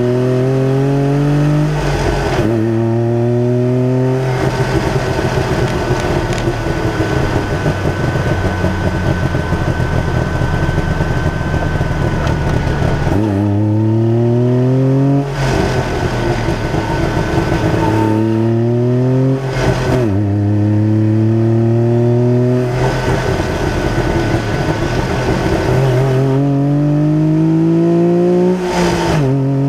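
Trabant engine heard from inside its engine bay while the car is driven: the engine pulls up through the gears, its pitch climbing and dropping sharply at each shift. After the first two shifts comes a long stretch of steady cruising with a thin steady whine.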